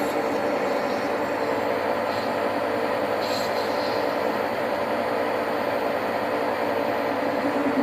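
Metal lathe running steadily while turning a new pedal bush, its motor and gearing giving a constant hum with a few steady tones.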